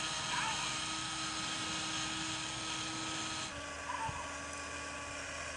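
Jakks Pacific Max Tow Truck toy driving, its small battery-powered motor and gears whirring steadily. The whir changes abruptly about three and a half seconds in.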